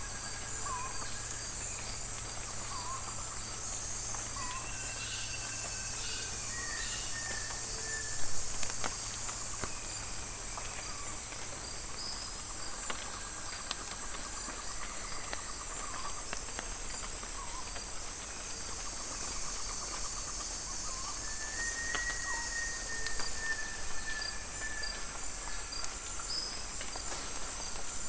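Tropical rainforest ambience: a steady high-pitched insect chorus with scattered short chirping calls, and a single brief knock about eight seconds in.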